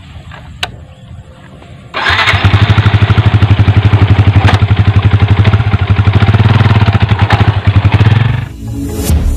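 Yamaha Vixion motorcycle's single-cylinder four-stroke engine starting about two seconds in, then running loud with a rapid, even pulse. It drops away shortly before the end.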